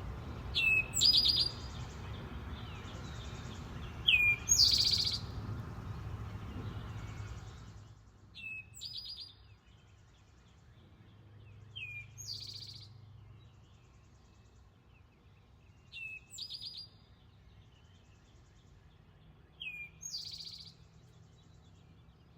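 A bird giving a loud, harsh two-part call six times, about every four seconds. Each call is a sharp hooked note followed by a buzzy one. A low background rush fades out about a third of the way through.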